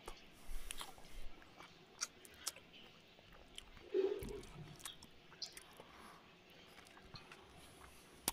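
A man chewing a mouthful of rice and curry eaten by hand, with scattered small clicks of mouth and fingers. There is a brief louder low sound about four seconds in.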